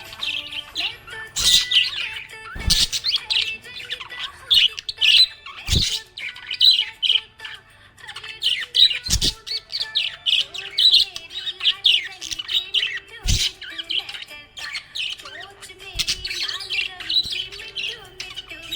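Budgerigar chirping and warbling in a fast, continuous stream of high chirps and squawks, with sharp clicks every few seconds.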